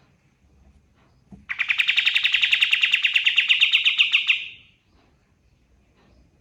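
A kapas tembak songbird singing one loud, rapid trill of about ten even notes a second, lasting about three seconds and ending about halfway through.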